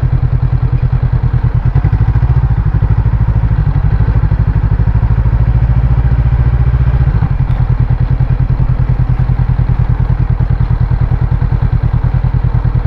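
Honda CB500X's parallel-twin engine running at idle, a steady, even pulsing.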